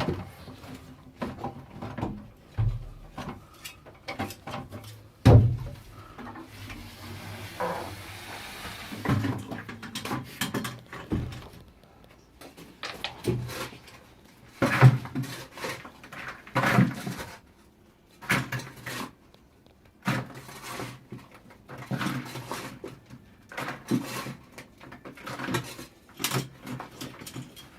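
Irregular knocks, clatters and scrapes of hand work with a spoil bucket in a dig shaft, with a short hiss about seven seconds in.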